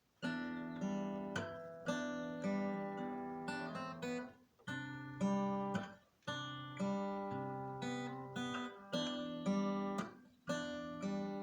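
Acoustic guitar strumming chords, each struck sharply and left to ring, with brief breaks between phrases: the instrumental intro of a song.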